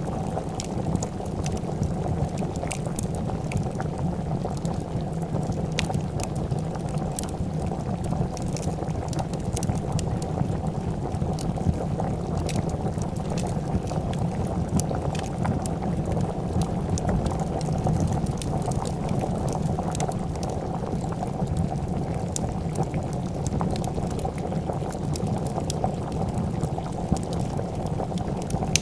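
A pot of soup boiling with a steady bubbling, mixed with frequent sharp clicks and pops from a crackling fire.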